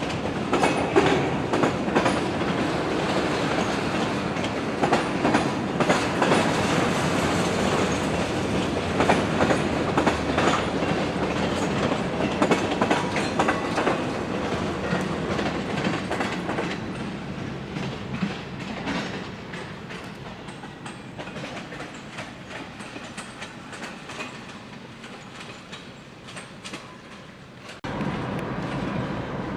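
Freight train cars rolling past with the clickety-clack and rattle of wheels over the rail joints. The sound slowly fades, then cuts off suddenly near the end, giving way to a steady low rumble.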